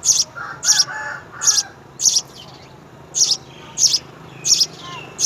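A bird chirping repeatedly in short, sharp, high chirps, about one every two-thirds of a second. Softer, lower twittering joins in around the first second.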